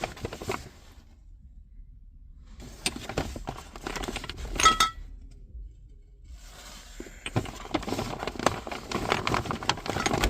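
Purchases being rummaged through in a shopping bag: rustling with small clicks and clinks of containers, in two spells. There is one ringing clink a little under five seconds in.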